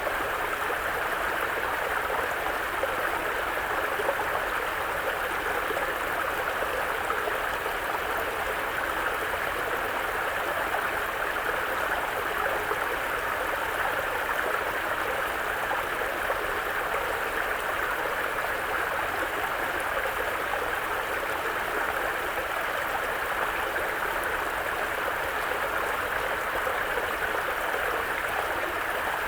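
Mountain brook flowing over stones, a steady babbling rush of water with no change.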